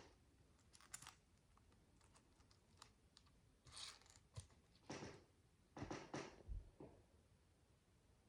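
Faint scattered clicks and brief rustles of plastic micro building bricks being handled and pressed together, bunched together about five to seven seconds in.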